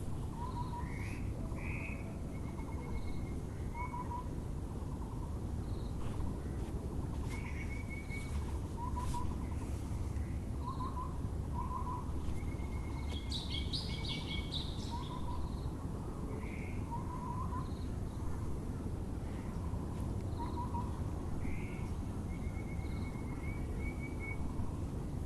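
Muller's barbet (Taiwan barbet) calling in short repeated note groups every couple of seconds, with other small birds trilling and a brief burst of higher chirps about halfway through, over a steady low hum of background noise.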